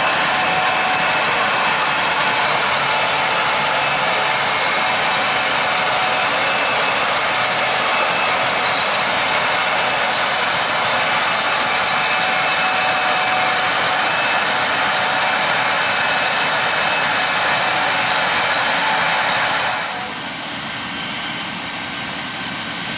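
Combines harvesting corn with tractors and grain carts running alongside: a loud, steady machine rush with faint steady whines, which drops off sharply about twenty seconds in.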